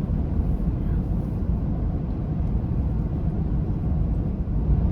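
Steady low rumble inside a moving car's cabin: engine and tyre noise from driving on slushy, snow-covered road.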